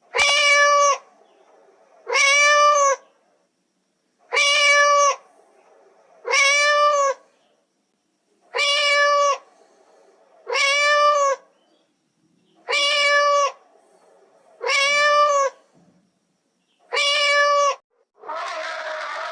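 A cat meowing: nine near-identical meows, each under a second long, about every two seconds. Near the end a harsher, noisier sustained call begins.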